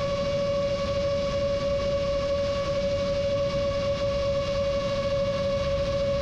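Rajawali Fold 7 FPV quadcopter's motors holding one steady whine with overtones at a constant throttle, over a low rush of wind.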